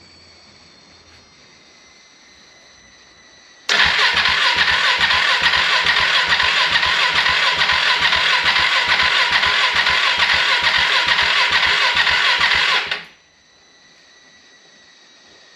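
Electric starter cranking the freshly rebuilt single-cylinder engine of a KTM 690 Duke, with an even beat of about four compression pulses a second, for about nine seconds before stopping abruptly without settling into a run. It is the engine's first start attempt after the rebuild, with little fuel in the tank.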